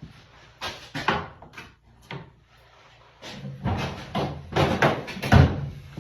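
Irregular metal knocks and clunks from tools and the workpiece being handled at a lathe, with a louder cluster of hits in the second half.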